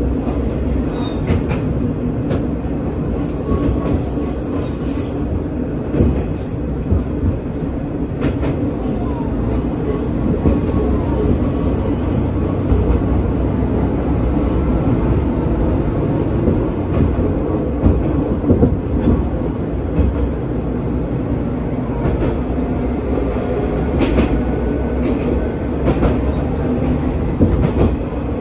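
Diesel railcar running along the track: a steady rumble of engine and wheels on rail, with rail-joint clicks. Twice, about four seconds in and again around twelve seconds, comes a brief high wheel squeal on the curves.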